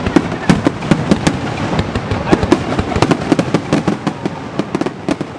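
Fireworks display going off in rapid succession: many sharp bangs and crackles a second, overlapping, easing off slightly toward the end.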